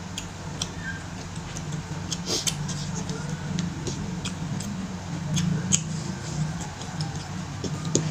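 Close-miked mouth sounds of someone eating goat meat and rice: chewing and lip smacking, heard as a string of irregular sharp wet clicks over a steady low hum.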